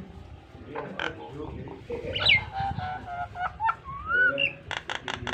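Nias hill myna singing a varied string of calls: harsh low notes, a sharp falling whistle, level and rising whistles, and a quick run of sharp clicks near the end.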